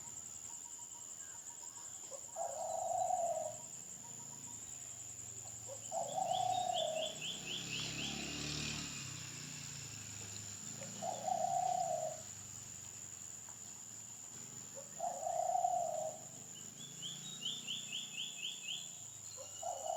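Birds calling: a short, low hooting note repeated about every four seconds, and twice a quick run of about seven higher, clipped notes.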